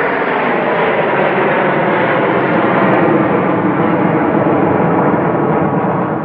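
Blue Angels F/A-18 Hornet jets passing together in formation, their engines making a loud, steady jet roar that eases slightly near the end.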